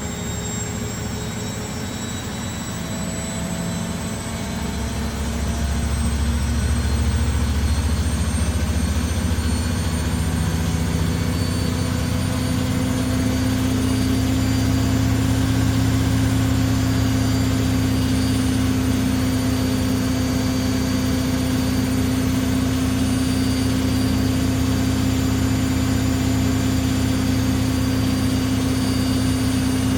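Washing machine drum spinning at speed: a steady mechanical hum with a faint high whine, getting louder about five seconds in and then holding steady.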